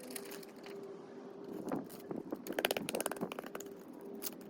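Jessup griptape being handled and applied to a skateboard deck: scraping and crinkling, with a quick run of rapid crackles a little past the middle.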